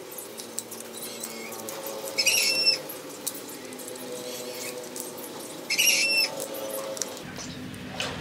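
A short, high-pitched squeak or chirp, heard twice about three and a half seconds apart.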